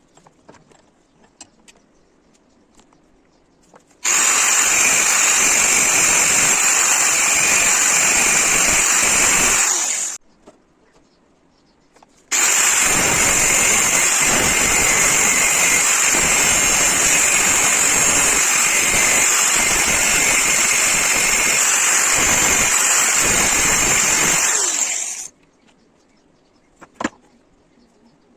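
A loud metalworking power tool runs in two stretches, first for about six seconds and then, after a short pause, for about thirteen seconds. Each time a steady high whine sits over harsh noise, and the sound starts and stops abruptly.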